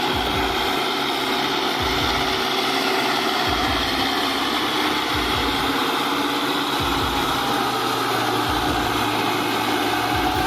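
Tractor engine running steadily, with uneven low rumbles coming and going underneath.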